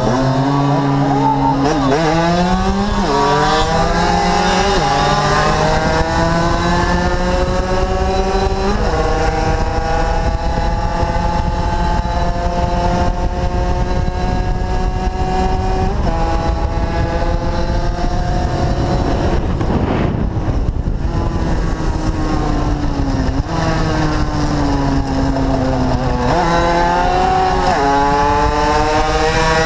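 Small-capacity two-stroke motorcycle engine accelerating up through the gears, its pitch rising in each gear and stepping down at each shift, with wind rushing over the microphone. About twenty seconds in the throttle closes and the pitch falls, then it climbs through the gears again near the end.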